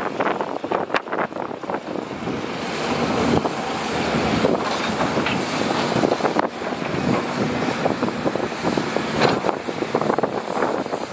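Excavator working in mud: the diesel engine running under load, with irregular clanks and knocks from the machine.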